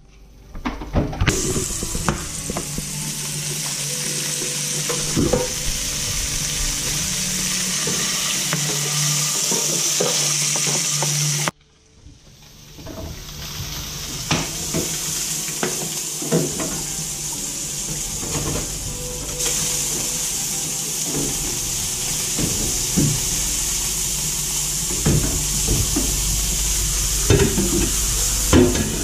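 Flathead fillets sizzling in hot oil in a frying pan, with scattered clinks and taps of the pan and utensils. The sizzle cuts out for a moment partway through and then comes back.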